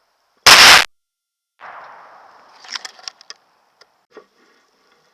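A single gunshot fired close to the microphone about half a second in, loud enough to overload it, as a hunter shoots a buck. A fading rumble follows, then several small clicks and knocks.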